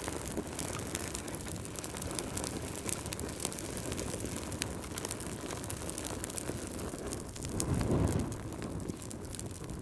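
Fireplace fire burning: a steady low rumble of flames with scattered sharp crackles and pops, swelling louder for about a second near the end.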